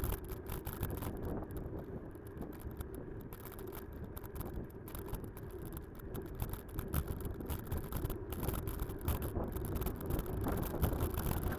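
Off-road motorcycle engines running at a distance, heard as a low, rough rumble under gusts of wind on the microphone, with frequent small knocks and rattles.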